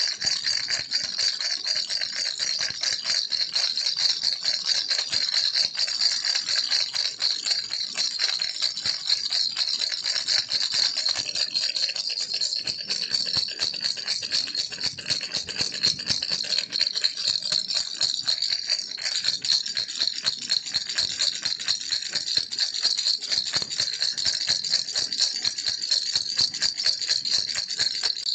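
Baby rattle shaken without pause, a fast, dense clatter of small beads.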